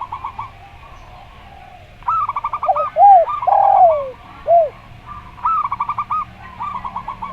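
Zebra dove (perkutut) cooing in quick stuttering runs of short notes, repeated several times. About three seconds in, a spotted dove (derkuku) joins with a few lower, rounded coos, the middle one long and falling.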